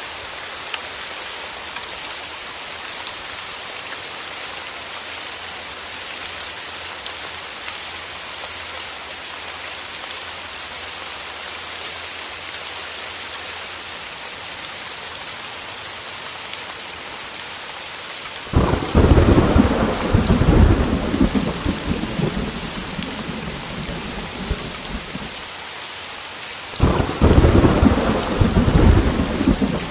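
Heavy rain falling steadily, a dense hiss with fine ticks of drops. About two-thirds of the way in, thunder breaks in suddenly with a deep rolling rumble lasting several seconds. A second peal of thunder rumbles in near the end.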